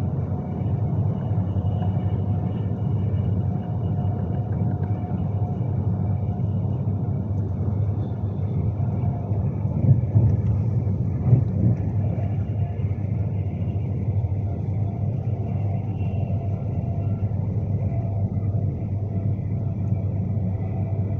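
Steady low rumble of a train running, heard from inside a Class 390 Pendolino carriage, with faint steady tones above it. Two brief knocks stand out about ten and eleven and a half seconds in.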